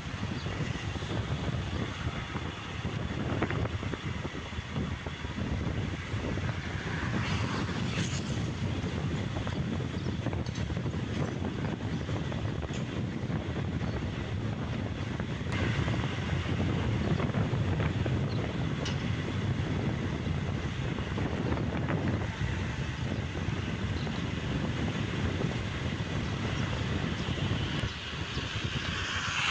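Motorbike riding along a road: steady rush of wind on the microphone over engine and road noise, with a brief louder swell about seven seconds in and another at the very end.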